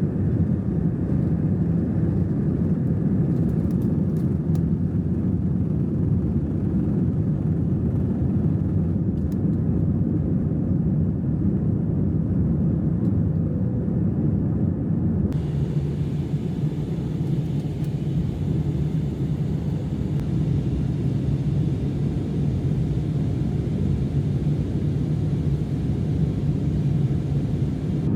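Steady low vehicle rumble with no let-up, its higher part shifting abruptly about halfway through.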